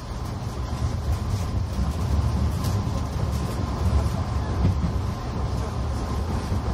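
JR 185-series electric train heard from inside a car as it pulls out of the station: a steady low rumble of wheels and traction motors, getting a little louder about a second in as it gets under way.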